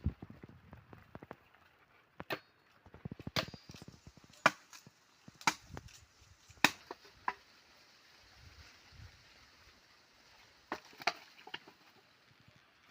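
Firewood being chopped by hand: sharp separate blows of a blade into wood, about one a second for a few seconds, then a pause and two more blows near the end.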